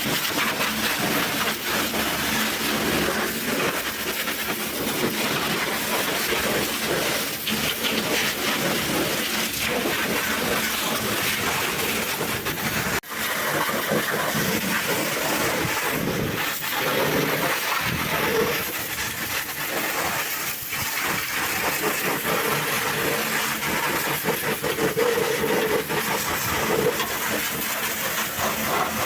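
High-pressure washer spraying water onto a truck engine, a steady loud hiss that cuts out for an instant about halfway through.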